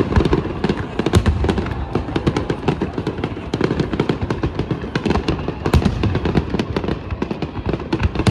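Fireworks display: a dense, continuous string of bangs and crackles, several a second, over a low rumble, with no pause between bursts.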